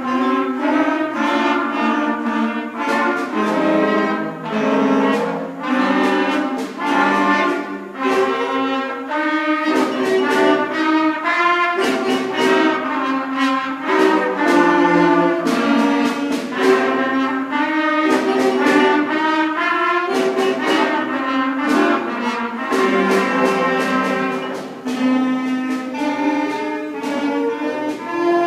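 Beginning concert band of young wind players (clarinets, trumpets, flutes and saxophones, with bass and percussion) playing a minor-key piece in parts.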